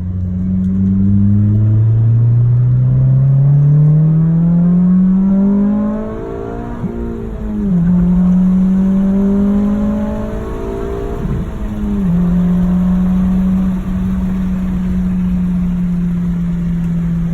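2008 Honda Civic Si's 2.0-litre four-cylinder through a custom 2¼-inch exhaust with the stock catalytic converter, accelerating through the gears. The engine note climbs steadily, drops at an upshift about seven and a half seconds in, climbs again and drops at a second shift about twelve seconds in, then holds steady.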